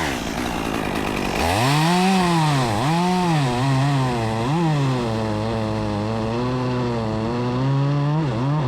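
Chainsaw cutting into a limb from the underside. Its engine picks up about a second and a half in and revs up and dips several times as the chain bites into the wood, holds a steadier, lower pitch under load, then revs up again near the end.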